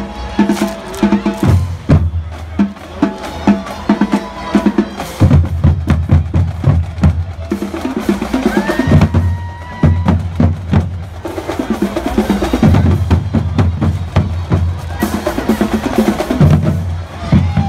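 Marching band drum line playing a cadence: Pearl marching bass drums beating deep, rapid strokes with snare drums rolling and rattling over them.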